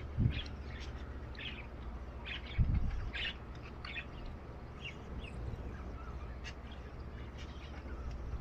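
Small cage birds in an aviary chirping in short, scattered calls over a steady low hum. Two brief low thumps come about a quarter second in and again near three seconds in.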